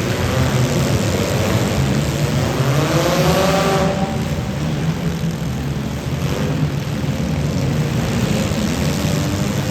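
Demolition derby cars' engines running hard; one revs up with a rising pitch about two and a half seconds in and drops off suddenly near four seconds, then the engines run on under load.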